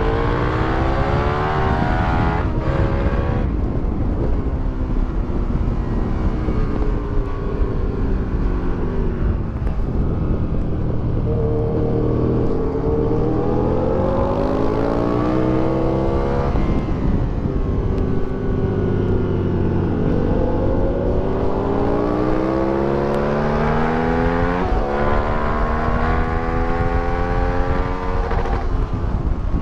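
2008 Aprilia Tuono 1000R's V-twin engine, with an Akrapovic exhaust and velocity stacks, running hard on track: the pitch climbs through the gears, drops back at each shift, falls away around the middle under braking and downshifts, then climbs again.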